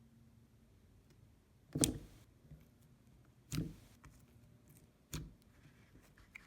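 Slime being worked by hand, with three sharp pops about a second and a half apart, like air bubbles popping in the slime, and a few faint clicks between them.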